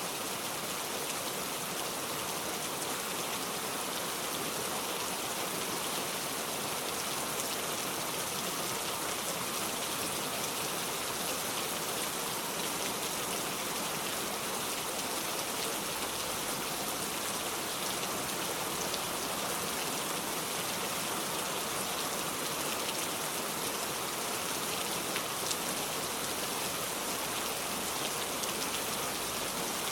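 Steady rainfall: an even hiss of rain with the patter of drops hitting a surface.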